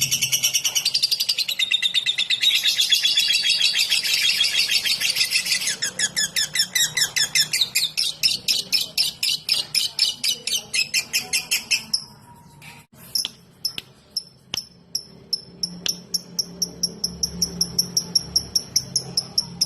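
Lovebird singing in the 'ngetik' style: a dense rapid chatter that turns about six seconds in into an even run of fast ticking notes, about five a second. After a brief pause with a few clicks near the middle, a lighter, higher string of rapid ticks goes on.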